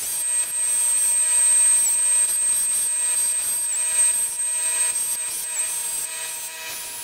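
A small power tool running with a steady high-pitched whine over scraping strokes; the whine stops about six seconds in.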